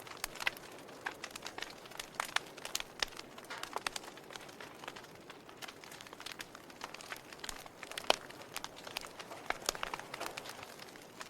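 Log fire crackling: irregular sharp pops and snaps over a soft steady hiss, with one louder pop about eight seconds in.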